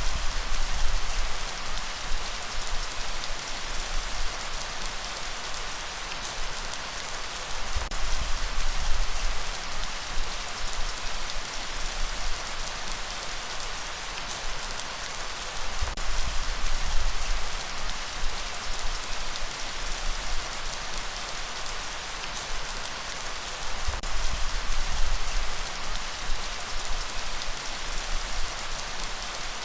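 Steady rainfall, a dense even hiss of drops, with a low rumble that swells for a second or two about every eight seconds.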